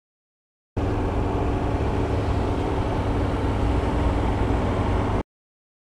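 Hyosung GT125R motorcycle riding at a steady speed, with engine and wind noise. The sound starts abruptly about a second in and cuts off suddenly near the end.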